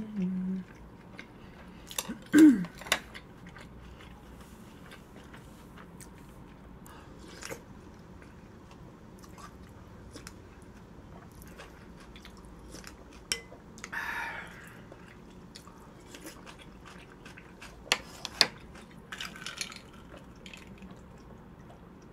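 Close-miked chewing and mouth sounds of a person eating, with a short falling hum about two and a half seconds in. A spoon and chopsticks tap and click against the bowls now and then, with two sharper clicks near the end.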